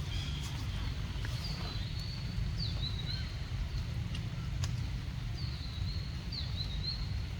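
Outdoor ambience: a steady low rumble with short, high chirping calls that glide downward, repeating about once a second.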